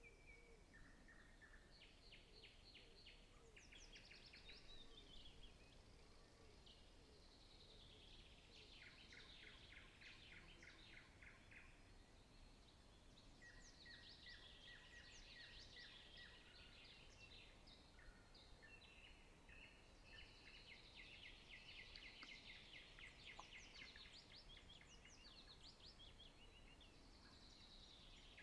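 Faint birdsong: rapid trilled phrases and falling chirps, one phrase after another every few seconds.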